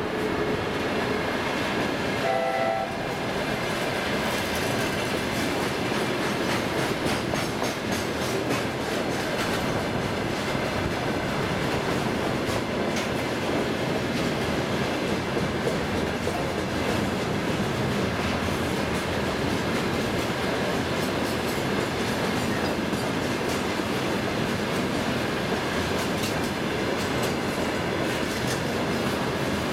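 Freight train wagons (tank cars and loaded log flatcars) rolling steadily past close by, with a continuous clatter of wheels over the rail joints. A brief high tone sounds about two seconds in.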